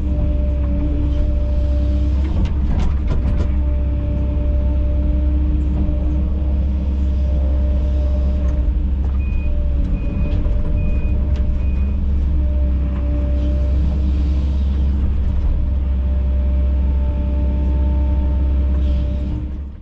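Kobelco SK210 excavator's diesel engine running steadily under load, with a steady whine over the rumble. A few knocks come about two to three seconds in, and four short high beeps sound about halfway through.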